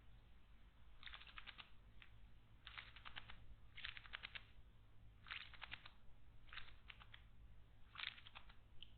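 Short, faint bursts of quick ticking, each a handful of clicks, coming about seven times, roughly once every second to second and a half, from a bird at a stone garden water basin.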